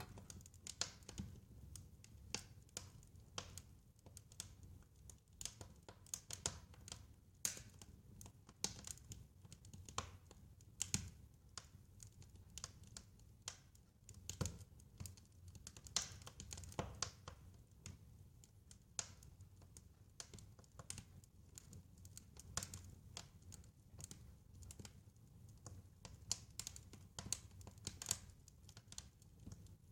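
Wood fire crackling: irregular sharp snaps and pops, several a second, over a faint low rumble.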